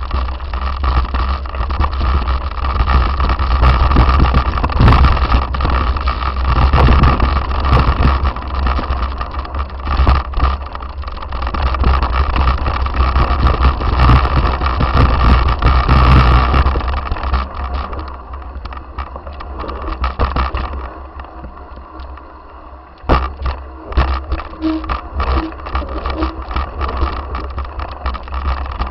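Heavy wind rumble on a moving microphone with frequent knocks and rattles, easing after about seventeen seconds, with one sharp knock about twenty-three seconds in.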